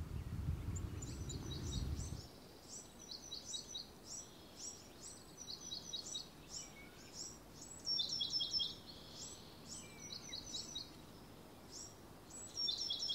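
Small birds chirping: quick runs of short, high chirps that sweep downward, repeated throughout. A low rumble underneath stops about two seconds in.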